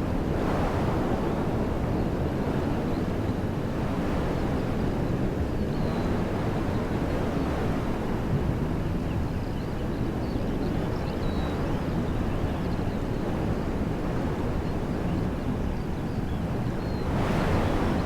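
Wind blowing through trees, a steady rushing with a deep rumble of wind on the microphone, swelling in gusts just after the start and again near the end.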